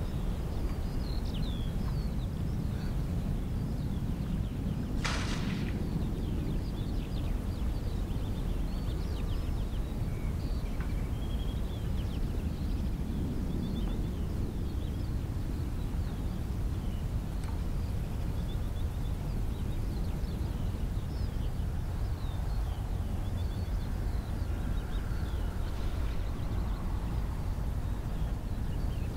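Outdoor coastal ambience: a steady low rumble under many short bird chirps scattered throughout, with one brief sharp noise about five seconds in.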